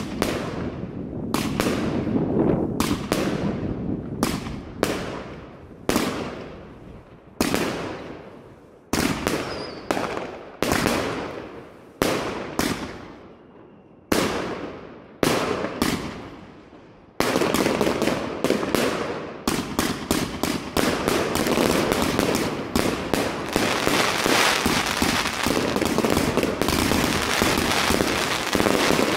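Evolution 'Golden Age' consumer firework cake (linked combination box) firing. For a bit over half the time, single shots go off about once a second, each report fading away. After that the shots come thick and fast in a continuous barrage.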